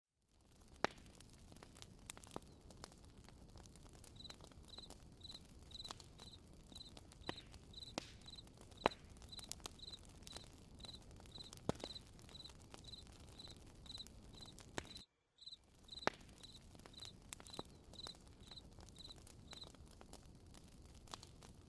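Campfire crackling faintly, with scattered sharp pops over a low hiss. A cricket chirps steadily about twice a second from about four seconds in until near the end. The sound drops out completely for a moment about fifteen seconds in.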